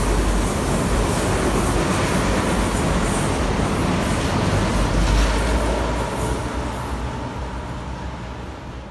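Irish Rail InterCity diesel railcar running along the platform: loud, steady engine and wheel noise with a deep rumble. It fades away over the last few seconds as the train leaves.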